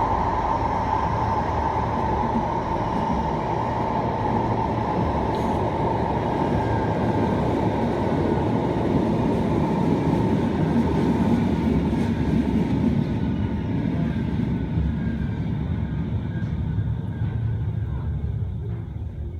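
Manchester Metrolink Bombardier M5000 tram running, heard on board: steady wheel and running rumble with a traction-motor whine that fades over the first few seconds. The noise dies away near the end.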